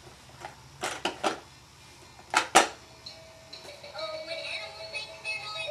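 A few short high-pitched blips, then an electronic tune with steady synthesized notes starting about three seconds in, typical of a battery-powered musical toy train.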